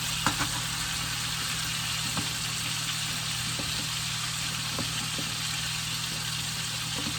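Chicken thighs sizzling steadily in a frying pan over a constant low hum, with a few faint clicks.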